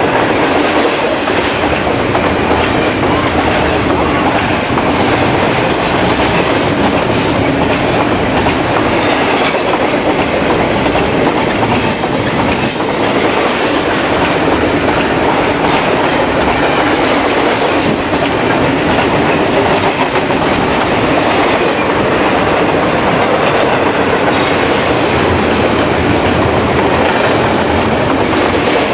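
Double-stack container freight train's well cars rolling past close by: a steady, loud rumble and clatter of steel wheels on rail that never lets up.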